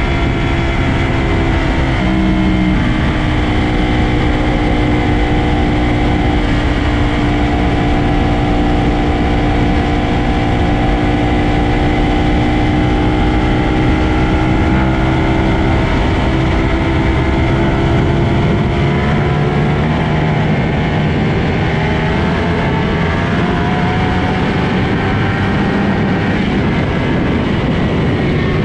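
Motorcycle engine running at a sustained highway speed, its pitch drifting slowly up and down over a steady rush of wind and road noise.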